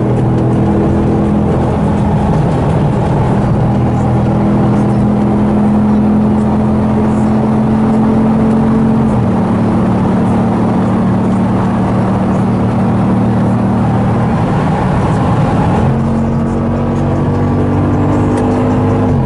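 Jeep Grand Cherokee SRT8's V8 engine pulling under load, its pitch climbing slowly and then dropping at a gear change about nine seconds in. Near the end the pitch jumps up, then drops again at another shift.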